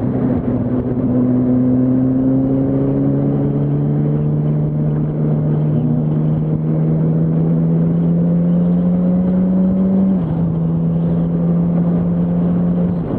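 Yamaha R1's inline-four engine running under steady throttle while riding, its pitch rising slowly for about ten seconds, then dropping a little and holding, with a further fall near the end.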